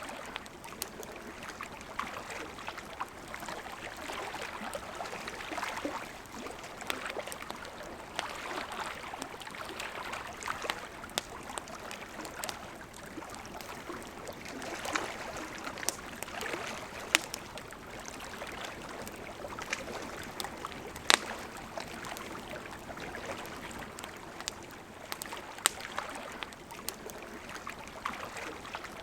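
Wood campfire crackling with scattered small snaps and a few sharp, loud pops, over the steady rush of a flowing river.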